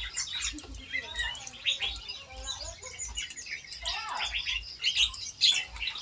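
Several small birds chirping and calling over one another, a busy mix of short high notes with no single song standing out.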